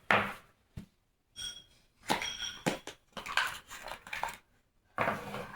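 A smartphone box being opened by hand: cardboard and paper packaging handled and rustled, with a sharp knock at the start and another just under a second later, then a run of scraping and crinkling.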